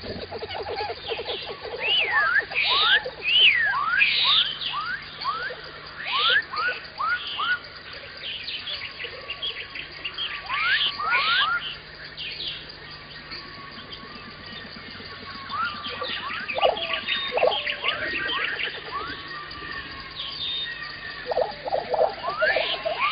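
Wild birds calling outdoors: many short, quickly repeated chirps that fall in pitch. A rapid, lower chattering call sounds at the start and comes back near the end.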